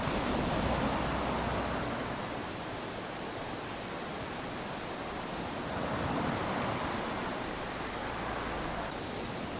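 Small sea waves washing up onto a sandy beach: a steady hiss of surf that swells twice, near the start and again about six seconds in.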